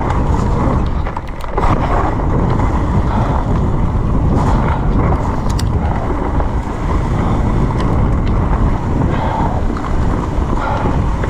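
Loud, steady rush and rumble of wind buffeting the camera microphone while riding a mountain bike fast downhill, with a few brief clicks and rattles.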